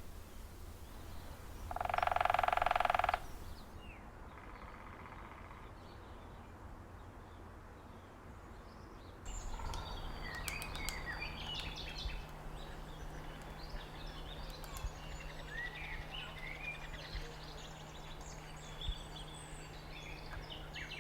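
Birds calling: a loud, drawn-out, steady-pitched call about two seconds in and a fainter one shortly after. About nine seconds in, the background changes to many quick chirps with a few sharp taps over a low steady hum.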